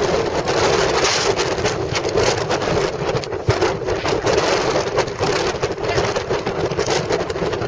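Gale-force wind of about 50–60 mph blasting straight onto the microphone: a loud, unsteady rushing and buffeting that flares up in constant gusts.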